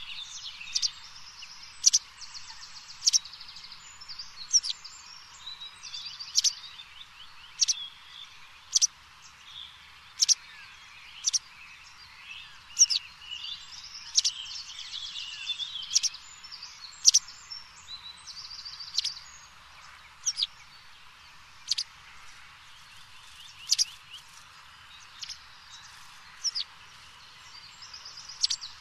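Outdoor ambience with birds: a short, sharp chirp repeats roughly every second or so, and there are a few bursts of a rapid buzzing trill.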